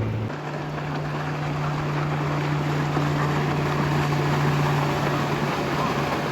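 Motorboat engine running with a steady low hum, over the rush of water and wind as a boat passes. The hum steps up to a higher pitch about a third of a second in, and the rushing grows slightly louder towards the middle.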